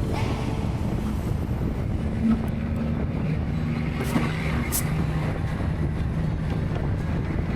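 Steady wind rush and road rumble from riding an electric motorcycle at speed, with a faint steady low hum under it.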